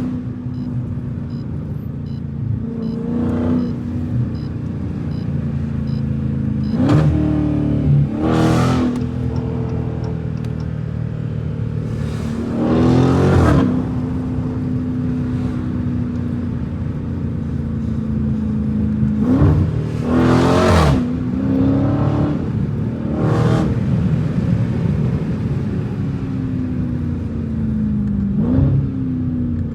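Straight-piped Dodge Challenger Scat Pack's 392 HEMI V8 driving, with the exhaust note rising in pitch through several hard bursts of throttle between stretches of steady cruising.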